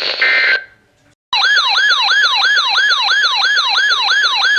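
An electronic siren-style alert tone starts about a second in, after a brief burst of tones and a short silence. It is a loud, rapid yelp of falling pitch sweeps, about three a second, used as the attention signal of an emergency weather alert.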